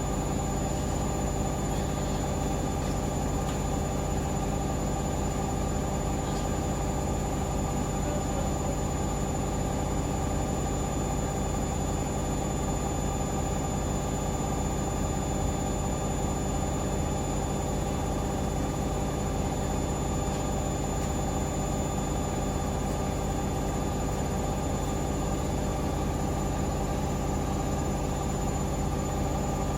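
Hoover Link washing machine spinning steadily at full speed, 1400 rpm, with a constant motor whine and drum hum.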